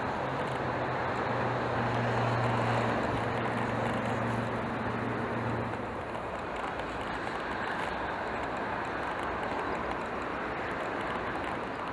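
Steady road and wind noise of a moving car, with a low engine drone through the first half that fades out about halfway.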